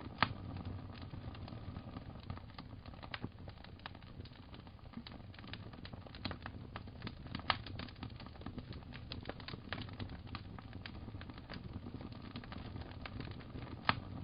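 Wood fire crackling: irregular sharp pops and snaps over a low steady rumble, with a few louder pops near the start, about halfway through and near the end.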